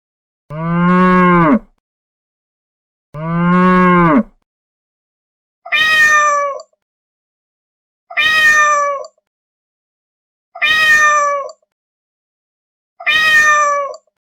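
A cow mooing twice, then a cat meowing four times. Each call is about a second long, with silence between them.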